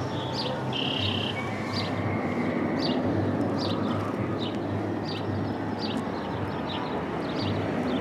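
A small bird chirping over and over, one short high chirp roughly every second, over a steady low hum.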